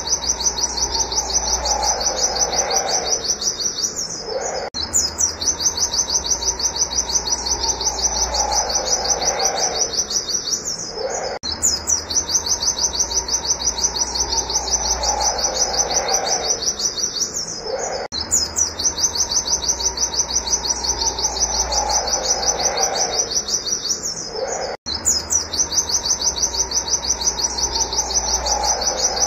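Pleci (white-eye) singing a fast, unbroken string of high 'wit wit' notes, about ten a second. A lower falling call sounds once every few seconds, and the same stretch repeats about every seven seconds, as in a looped recording.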